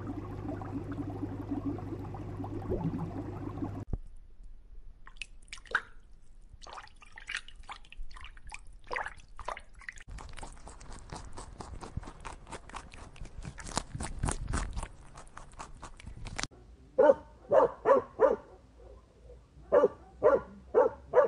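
A steady low hum at first, then wet clicking and crunching of a gorilla chewing food. Near the end comes a run of short loud barks from a dog: four in quick succession, then three more.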